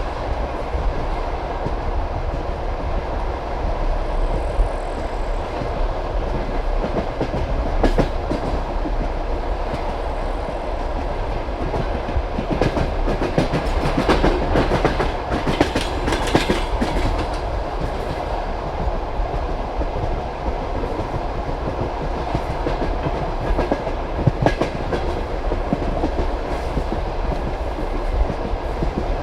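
Passenger railway coach running along the line, its wheels clacking over the rail joints above a steady rolling rumble, with a busier run of clacks about halfway through.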